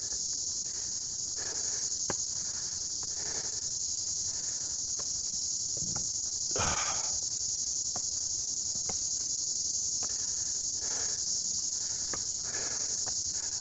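Dense, steady, high-pitched chorus of insects singing without a break, which the hiker takes for giant katydids. A few faint short sounds lie underneath it.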